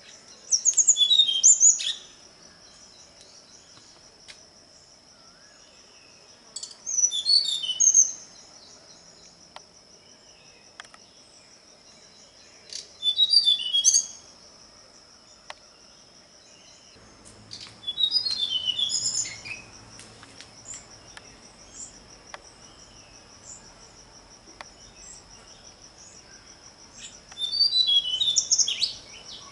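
A songbird singing five short, loud phrases of quick high twittering notes, one every several seconds, over a steady high-pitched insect trill.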